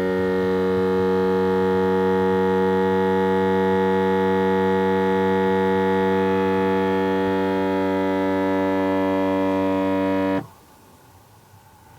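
Toyota Crown (S170) making its abnormal noise: a steady, low buzzing drone full of overtones, which the owner likens to a bullfrog's call. It cuts off abruptly about ten seconds in.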